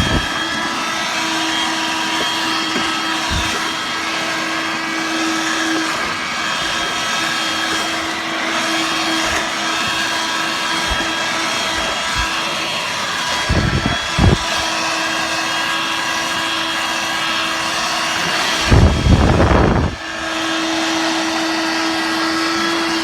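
Dirt Devil Vibe corded stick vacuum running steadily with a motor whine over a rushing of air as it sucks up cat litter. The noise swells twice, briefly about halfway through and for about a second near the end.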